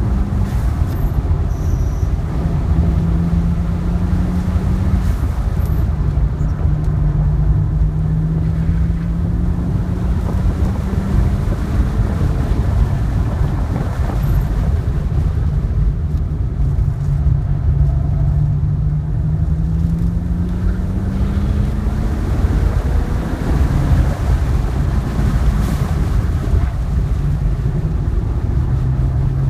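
2010 BMW 3 Series engine heard from inside the cabin at track speed over heavy road and wind rumble. Its note climbs slowly under acceleration and drops back a few times.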